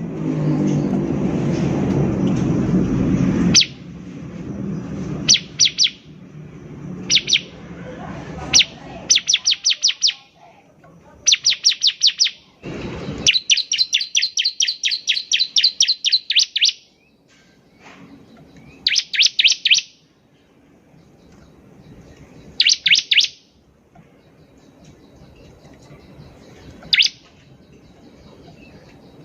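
Bar-winged prinia (ciblek) singing: fast runs of high, sharp repeated notes in short bursts, with one longer run lasting a few seconds near the middle. A low rumbling noise fills the first few seconds, and a single thump comes a little before halfway.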